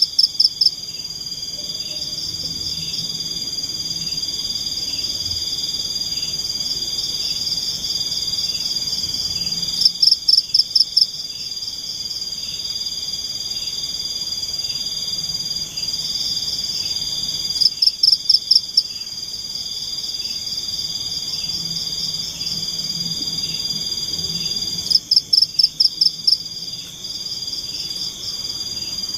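Forest insect chorus at night, crickets trilling in a steady high drone, with short, louder pulsing bursts every seven or eight seconds.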